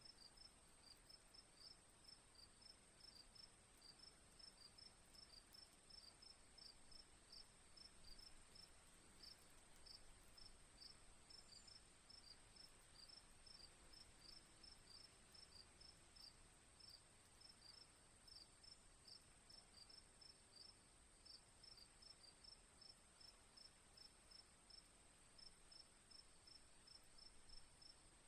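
Crickets chirping faintly: short high chirps repeating evenly several times a second, over a steady high-pitched insect trill.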